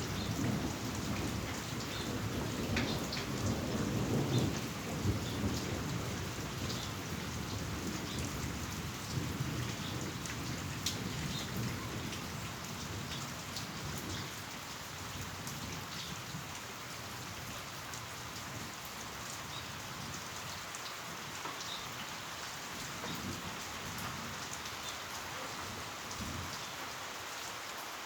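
Heavy rain falling steadily, with scattered sharp drop ticks, under a low rumble of thunder that is strongest in the first few seconds and dies away by about the middle.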